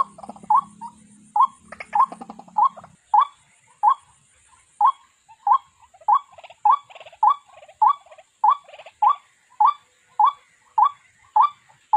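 White-breasted waterhen calling: a run of short, sharp, slightly rising notes repeated about twice a second, a recorded call played as a trapping lure.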